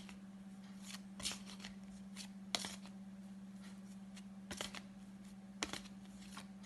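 Paper flashcards being flipped and handled one after another, giving a scattered series of short, faint slaps and rustles over a faint steady hum.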